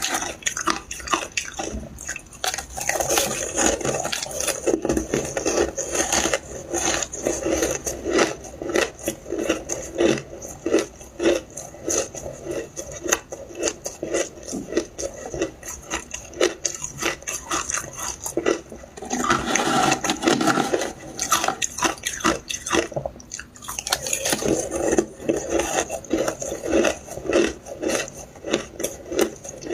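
Close-up crunching and chewing of shaved ice dusted with milk powder: rapid, continuous crisp crunches as mouthfuls of ice are bitten and chewed.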